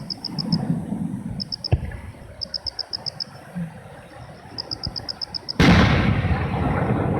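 Aerial fireworks shells bursting. The rolling rumble of one burst dies away, a sharp crack comes a little under two seconds in, and a loud boom near the end is followed by a long rumbling echo.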